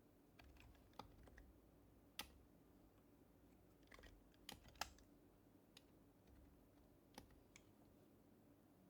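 Sparse, irregular typing on an HHKB Professional Hybrid Type-S keyboard with silenced Topre switches: about a dozen soft, separate keystrokes, a few louder ones in the middle, over a quiet room.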